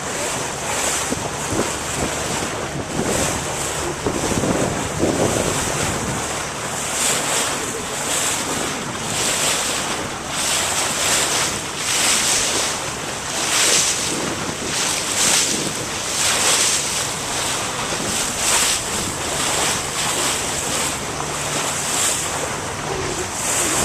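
Wind buffeting the microphone and water rushing and splashing past the hull of a moving motorboat, in surges every second or two, with the engine a low steady hum underneath.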